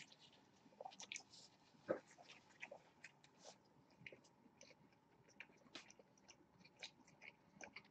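Faint chewing of hamburger with mouths closed: soft, scattered wet clicks and smacks, with a slightly louder one about two seconds in.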